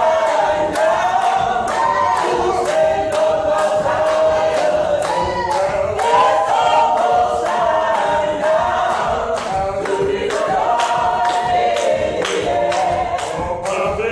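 Gospel choir singing a cappella, several voices moving together in harmony, over a steady sharp beat.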